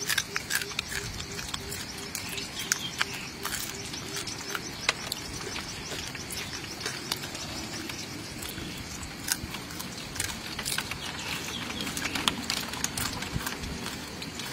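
Close-up chewing and crunching of a grilled lizard, with many irregular sharp crackles. In the background, a rhythmic pulsing call, about three pulses a second, runs for the first five seconds or so.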